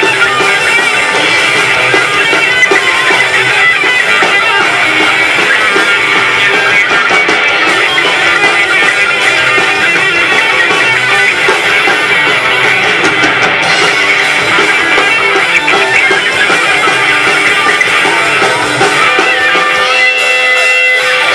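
Live rock band playing, guitars to the fore with drums. Near the end the low end drops away, leaving held notes ringing.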